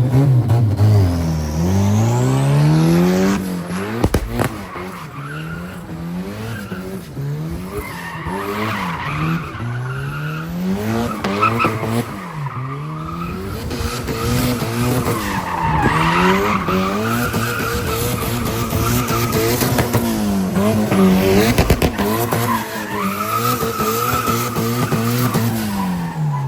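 A car engine revving up and down again and again while its tyres squeal and skid, as in a car being spun or drifted.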